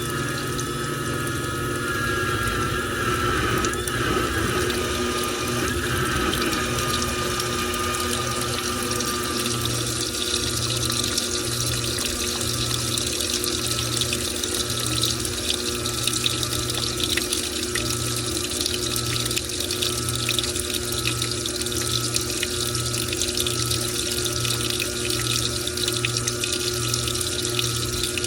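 Washing machine with towels in it, water running into the drum with a steady rush. A wavering whine fades out in the first few seconds, and from about ten seconds in a low hum starts and stops about once a second.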